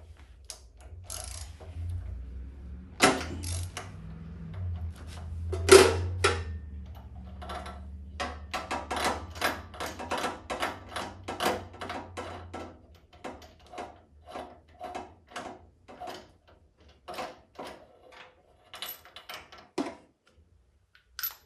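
Ratchet wrench clicking in a long, even run of about three clicks a second, working on the snowblower's spark plug, with a few louder metallic knocks earlier. A low steady hum runs under the first half.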